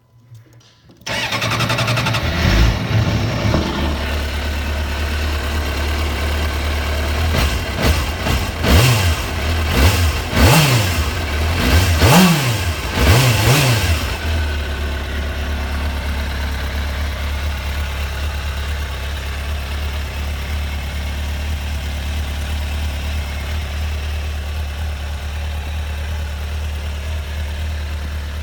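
2001 Suzuki GSX-R600 K1's inline-four engine starting about a second in and settling into idle. It is revved in several quick throttle blips in the middle, then drops back to a steady idle.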